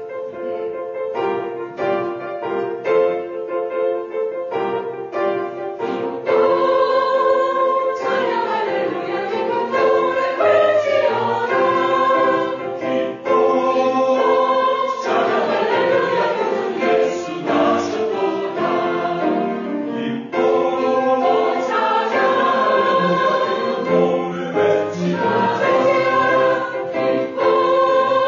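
Church choir singing a Christmas hymn with piano accompaniment. It opens on repeated piano-backed chords and grows fuller and louder about six seconds in.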